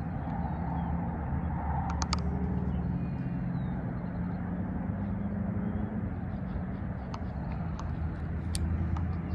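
A motor's steady low hum runs throughout, with a few sharp clicks, one about two seconds in and another near the end.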